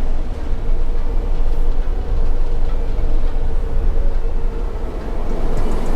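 Steady low rumble and noise aboard a moving train ferry, with a faint steady hum running through it.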